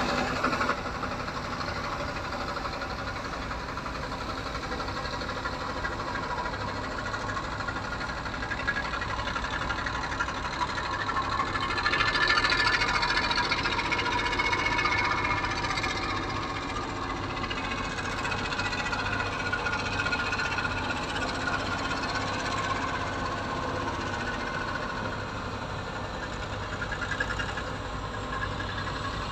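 An engine running steadily with a low rumble, swelling a little louder for a few seconds around the middle.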